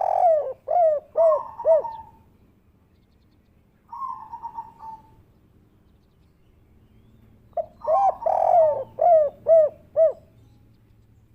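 Spotted dove (derkuku) cooing in the song style breeders call 'kuk 3': a phrase of repeated arched coos at the start and another about eight seconds in, with a softer, quavering coo about four seconds in.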